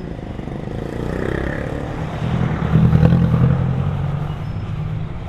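Motor scooter's engine and exhaust pulling away and accelerating, getting louder to a peak about three seconds in, then easing off.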